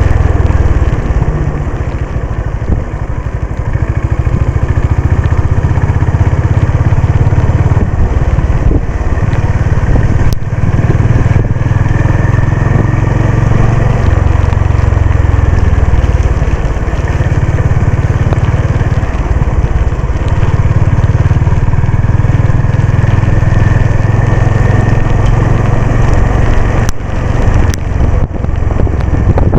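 Honda CB350 RS's air-cooled single-cylinder engine running as the motorcycle is ridden, its level swelling and easing with the throttle. A few sharp clicks stand out, one about ten seconds in and several near the end.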